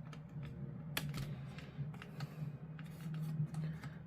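Scattered light clicks and taps of hard plastic model-kit pieces being handled and set down on a table, the sharpest about a second in, over a steady low hum.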